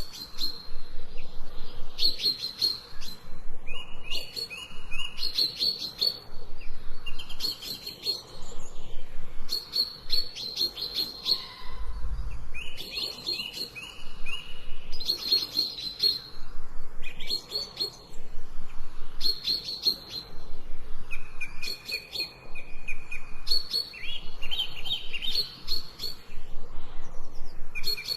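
Songbirds chirping in quick, repeated phrases of rapid high notes, some with a lower trill, one phrase about every couple of seconds.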